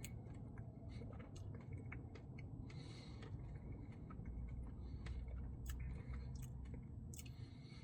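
Close-miked chewing of a cookie dough Blizzard, with scattered small wet mouth clicks and a brief soft smacking hiss about three seconds in.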